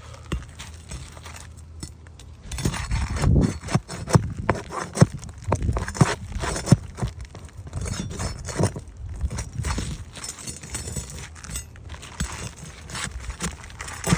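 A metal tool prying at roofing nails under asphalt shingles to loosen them: irregular sharp clinks and knocks with scraping, starting about two and a half seconds in.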